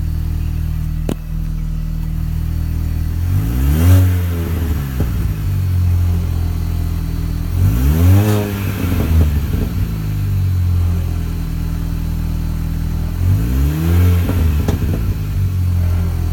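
2004 Mini Cooper S R53's supercharged 1.6-litre four-cylinder idling and revved three times, the pitch rising and falling back each time, with small pops on the overrun from its one-ball-mod exhaust, heard through the cabin.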